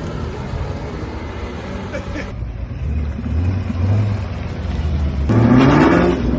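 Car engine running low, then revved hard about five seconds in, its pitch climbing quickly and its sound growing loud.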